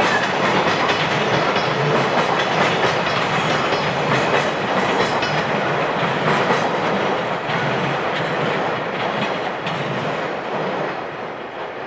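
Container wagons of a freight train rolling past, steel wheels clicking over the rail joints, the sound fading away over the last few seconds.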